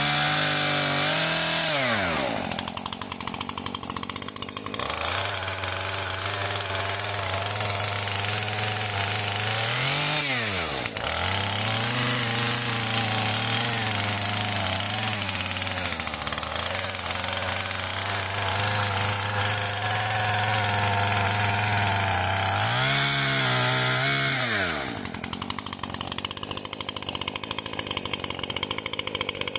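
Chainsaw cutting up a felled hawthorn, its engine held at steady revs through the cuts. It drops to idle about two seconds in and again near the end, with a quick dip and pick-up in the middle.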